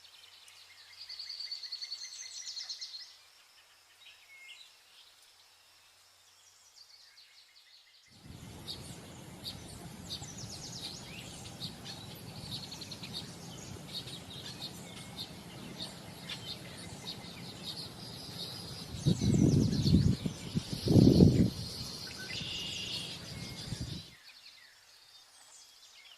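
High, thin chirping calls of vernal hanging parrots. From about eight seconds in, the chirps come thick and fast over a steady hiss, with two loud low rumbles around twenty seconds in.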